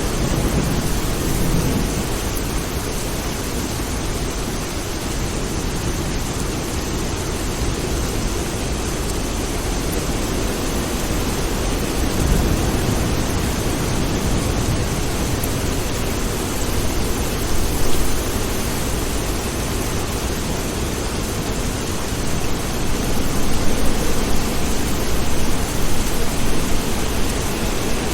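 Steady rain with low rumbles of distant thunder that swell a few times, most strongly near the end.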